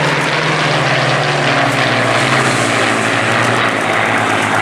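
Supermarine Spitfire's V12 piston engine running loud in a fly-past display, its note falling steadily in pitch.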